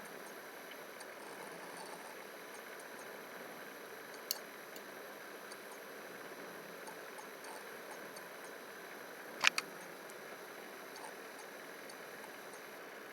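Steady low hiss of background noise, broken by a single light computer-mouse click about four seconds in and a sharper double click a little past halfway.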